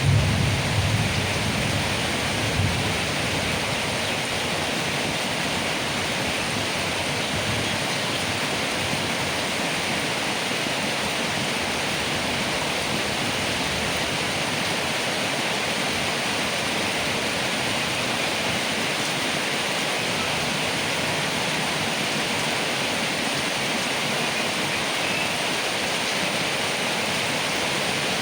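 Heavy rain falling steadily on leaves, an even hiss. A low rumble of thunder fades out in the first few seconds.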